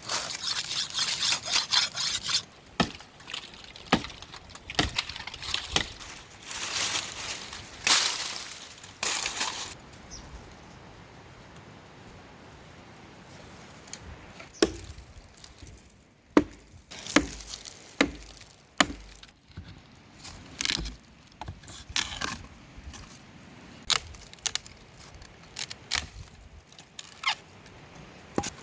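Irregular sharp knocks and clicks from hands working with wood or utensils, with bursts of rustling or scraping during the first ten seconds.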